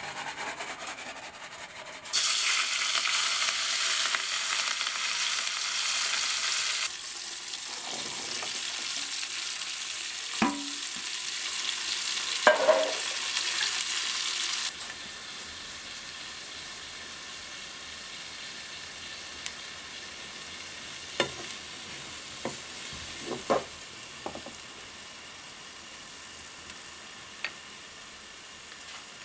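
Sliced shallots and garlic frying in hot coconut oil in a pot: a loud sizzle starts suddenly about two seconds in and gradually settles to a quieter steady sizzle. A wooden spoon stirring the pan knocks and scrapes against the pot several times.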